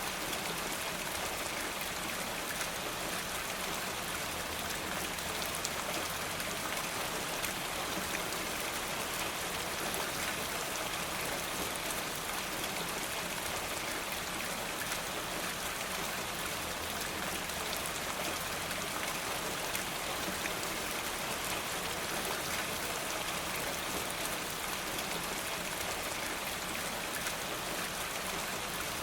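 Steady rain falling, an even hiss with fine scattered drop ticks throughout.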